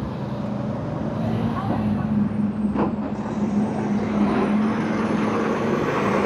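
A motor vehicle engine idling steadily, holding one low pitch, with a single sharp knock about three seconds in.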